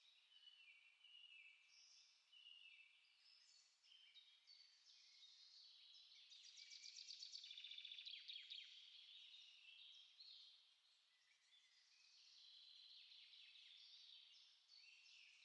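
Faint songbirds chirping and singing over one another, short overlapping phrases throughout, with a rapid trill near the middle.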